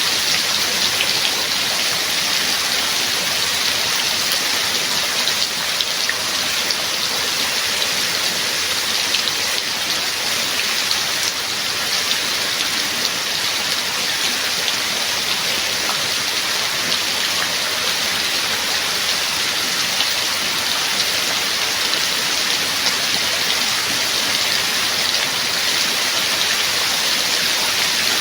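Steady heavy rain: a dense, even hiss of falling water flecked with many small drop ticks, unchanging throughout.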